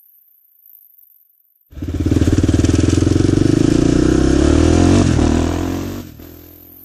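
A motorbike-type engine running loud and close. It starts abruptly about a third of the way in, holds a steady pitch for about three seconds, then fades away near the end.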